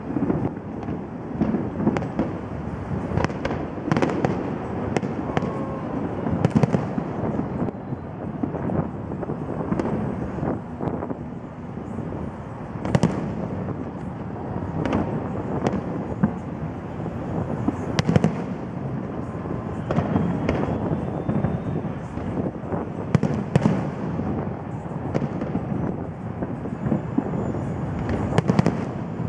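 Aerial fireworks display: a continuous barrage of shell bursts, sharp bangs coming several times a second over a steady rumble, with a few louder reports standing out.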